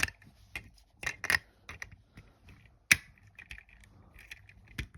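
Plastic Lego pieces clicking and clattering as they are handled and pressed together: a few sharp separate clicks, the loudest about three seconds in.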